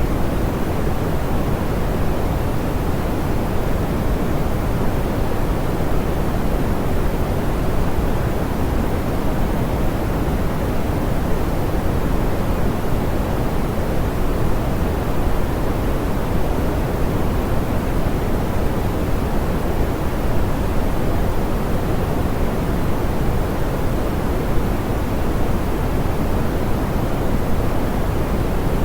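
Steady pink noise, soft and smoothed, with most of its weight in the low end and the highs rolled off: an even, unchanging hiss.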